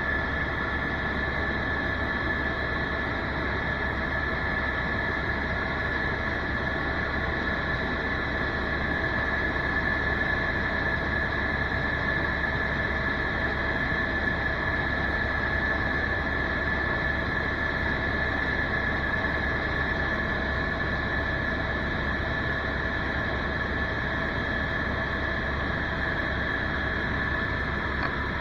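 Helicopter in flight heard from inside the cabin: a steady rush of rotor and engine noise with a high, even whine on top, unchanging throughout.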